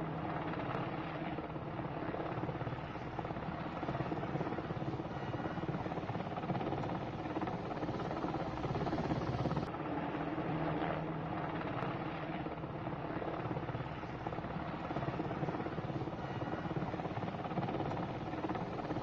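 Military helicopter flying steadily overhead, its rotor and engine noise continuous, with a steady low hum.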